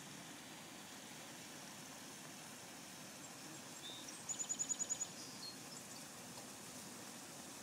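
A small bird gives a quick high-pitched trill of about nine notes about four seconds in, with a single short chirp just before it and a falling note just after. Under it runs a steady low outdoor hiss.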